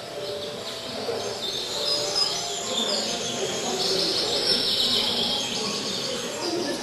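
Songbirds chirping and calling, several short calls overlapping, busiest from about two to six seconds in.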